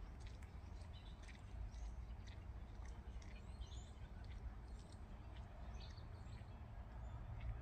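Small birds chirping and calling intermittently, short quick notes scattered throughout, over a steady low rumble.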